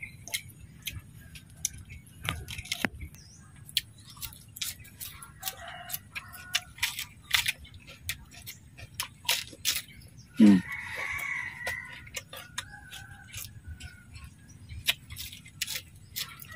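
Crunching and chewing of crispy fried duck skin: many quick crackling bites and mouth clicks. A single louder call, falling then held, sounds about two-thirds of the way through.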